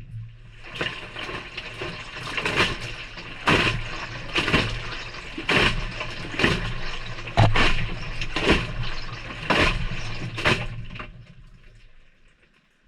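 Maytag front-loading washer's drum turning through a wash tumble on the delicate cycle: the motor hums while water and wet laundry slosh and splash down about once a second, heard close up from inside the drum. It starts suddenly and winds down about eleven seconds in as the drum stops.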